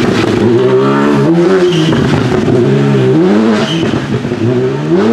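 Turbocharged rally car engine revving hard, its pitch dropping and climbing again about three times as it accelerates.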